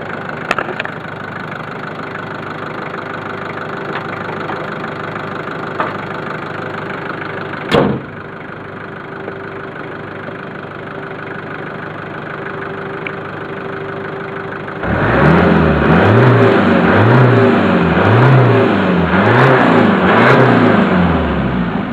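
Turbocharged car engine idling, with a single thump about 8 seconds in, likely the bonnet being shut. From about 15 seconds the throttle is blipped in a quick series of about eight revs, each rising and falling in pitch, to demonstrate the turbo dump valve with the bonnet down.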